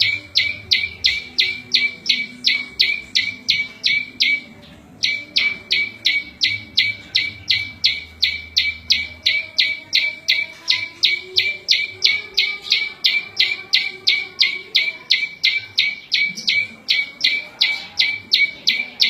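Prenjak lumut song: a sharp, high chip note repeated evenly about three times a second, with one short break about four and a half seconds in.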